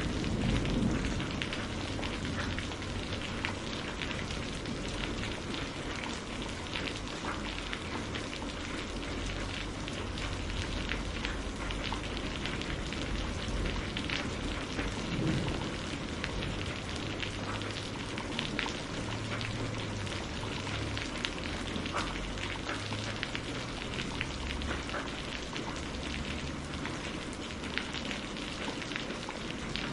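Steady rain pattering on a surface, with dense small drop ticks over a low rumble; a louder rumble fades out in the first second or two.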